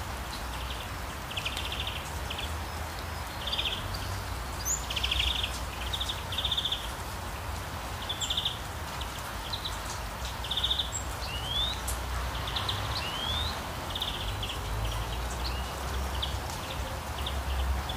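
Birds calling throughout: many short, buzzy repeated notes and a couple of quick rising whistles, over a steady outdoor background hiss and a low rumble.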